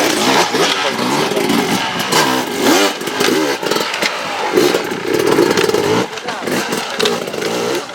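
Enduro motorcycle engine revving up and down unevenly, one rise in pitch about three seconds in and a held note a little before two thirds of the way, over spectators talking.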